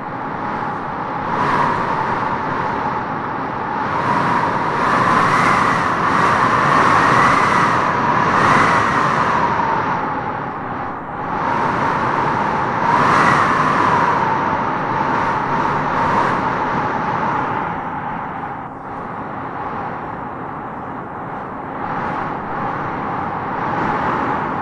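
Wind blowing in gusts, with a howling whistle that wavers up and down in pitch. It swells a few seconds in and again about halfway through, then eases.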